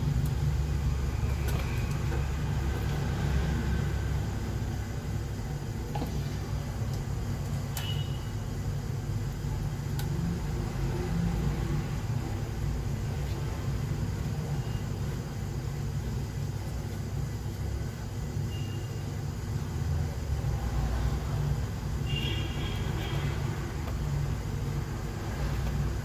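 A steady low rumble of background noise, with a few faint clicks from small parts being handled.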